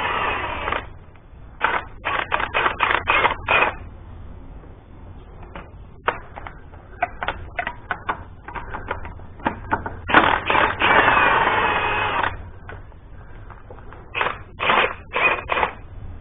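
Hand socket ratchet clicking as it works bolts in a tractor engine: short runs of quick strokes, about four or five a second, and twice a longer spell of fast, continuous ratcheting.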